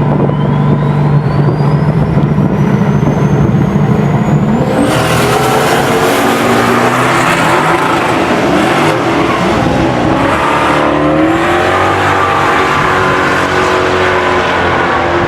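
Drag car engine running hard at high revs. A high whine climbs steadily in pitch over the first five seconds, then gives way to loud, rough engine and tyre noise with several shifting tones.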